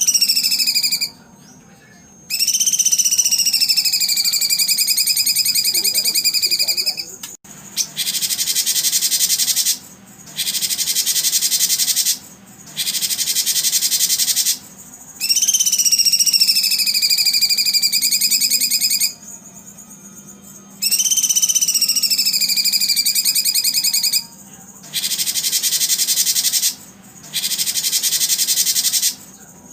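Recorded songbird calls, looped. Long rapid trills of several seconds each fall in pitch and then hold level, alternating with stretches of high, dense buzzing chatter. Each phrase starts and stops abruptly, with short gaps between them.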